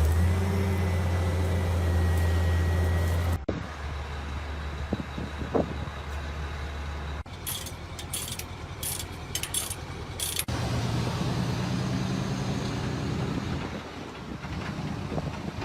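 Heavy truck engines running with a low, steady drone, the sound changing abruptly three times. In the middle stretch several short bursts of hiss sound over the engine.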